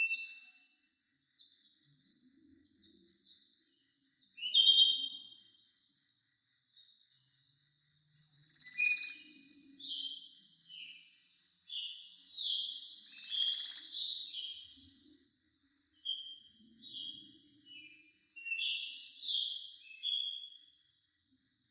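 A steady high insect trill, like a cricket's, runs under repeated short, downward-sliding bird calls. The bird calls come loudest about 4, 9 and 13 seconds in.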